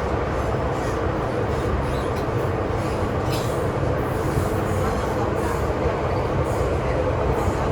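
MTR M-train electric multiple unit running between stations, heard from inside the car: a steady rumble of wheels on track with a constant hum. A few brief faint hisses or squeals come from the wheels.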